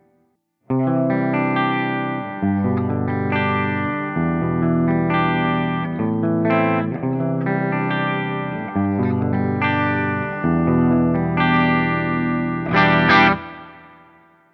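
Electric guitar played through a digital amp-modeling preamp set to a 5150-style clean channel: chords that change every second or two, with a slight edge of drive. A louder, brighter strummed chord comes near the end and then rings out.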